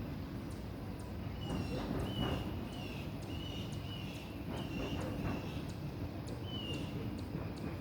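A long train passing at a distance: a steady low rumble with faint regular clicking, and a run of short high chirps about every half second.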